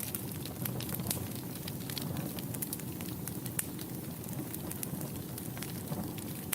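Wood fire in a fireplace burning with a steady low rumble and many sharp, irregular crackles and pops.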